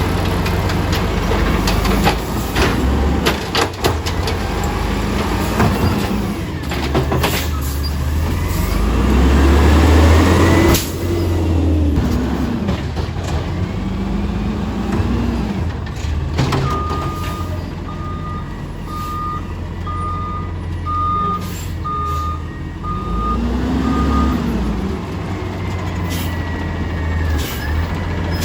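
Garbage truck with a mechanical pickup arm at work: the diesel engine revs up and down in several sweeps as the arm's hydraulics run, with scattered clanks and knocks. A run of about ten evenly spaced beeps sounds in the middle.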